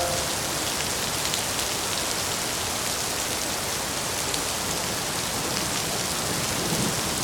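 Steady heavy rain falling on a surface: a dense, even hiss with scattered drop ticks.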